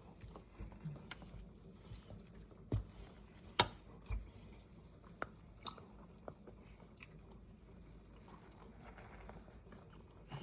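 A person eating young coconut, with soft chewing and mouth sounds. A few sharp clicks and knocks fall between about three and six seconds in, the loudest near three and a half seconds.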